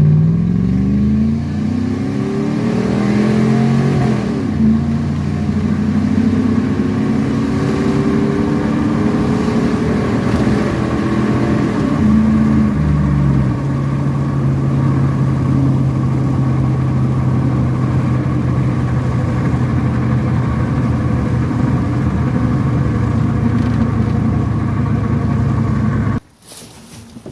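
1999 Chevrolet Silverado Z71's 5.3-litre V8 through a homemade straight-pipe exhaust, accelerating with its pitch rising and falling several times, then holding a steady drone at a constant engine speed. The sound cuts off abruptly near the end.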